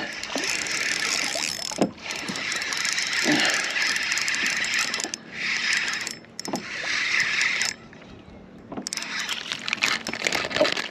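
A hooked white trout being reeled in to a kayak: the fishing reel cranking amid uneven rustling and splashing noise, with a few louder swells of noise in the second half.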